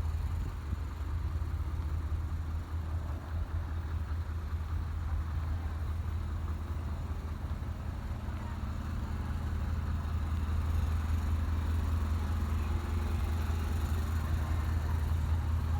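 Heavy truck diesel engine running with a steady low rumble, growing a little louder about two-thirds of the way through.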